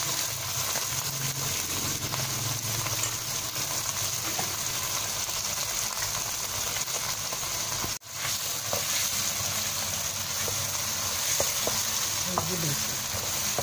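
Okra and white radish sizzling steadily as they stir-fry in a wok, with a spatula now and then scraping and tapping against the pan. The sizzle breaks off for an instant a little past halfway.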